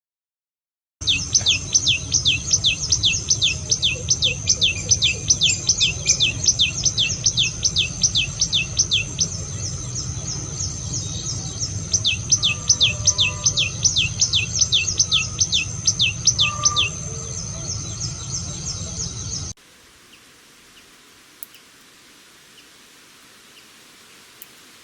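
A songbird repeating quick down-slurred notes, about four a second, in two long runs with a short pause between them, over a steady low rumble. The audio then cuts to faint hiss with a few small ticks.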